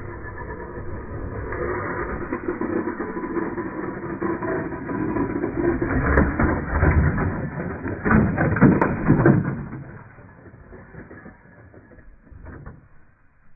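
Slowed-down, deep-pitched sound of a Losi Baja Rey 1/10 electric RC trophy truck running: a smeared motor whine with tyre and chassis rattle. It swells to its loudest between about six and nine seconds in, then fades away.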